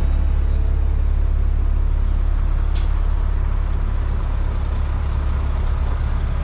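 Street traffic with a heavy vehicle rumbling steadily, and a short sharp hiss about three seconds in.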